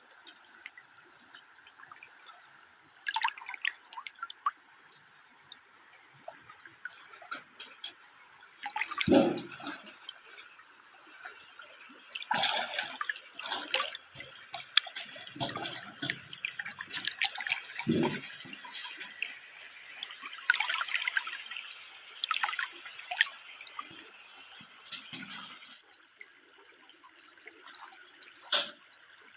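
Water splashing and dripping in irregular bursts, with scattered sharp knocks. It is busiest through the middle and thins out in the last few seconds.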